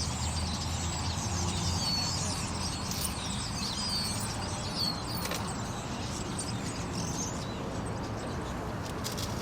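Many small birds chirping and twittering at once, dense at first and thinning out after about five seconds, over a steady low rumble.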